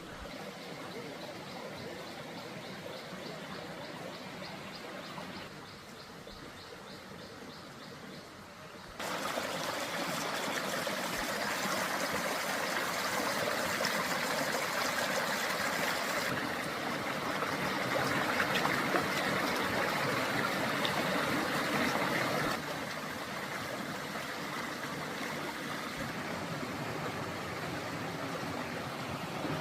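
River water flowing in a steady rush, jumping louder about nine seconds in and dropping back partway a little after twenty-two seconds.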